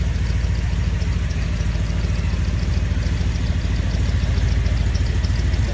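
Chevrolet 327 small-block V8 with a four-barrel carburettor idling steadily through dual Flowmaster mufflers, with a fast, even exhaust pulse and a faint quick ticking above it.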